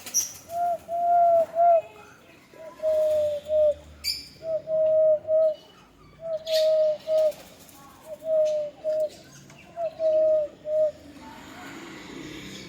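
Dove (qumri) cooing: six phrases of three low, even notes, one phrase about every second and a half, stopping near the end. Faint chirps of other small birds come in between.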